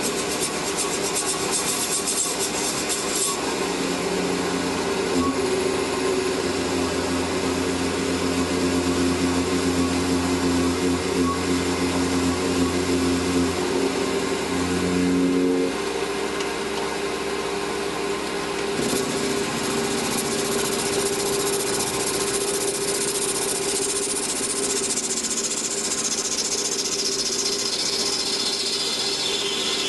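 Metal lathe running and turning a workpiece, a steady machine hum with cutting noise. The sound changes about halfway through, and near the end a high whine slides down in pitch.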